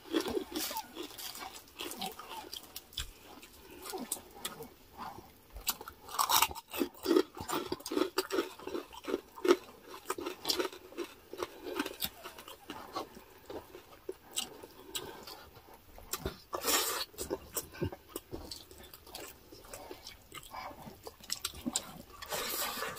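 Close-up chewing and crunching as two people eat crispy fried pork chicharon and dinuguan by hand, with irregular crackling bites and wet mouth sounds.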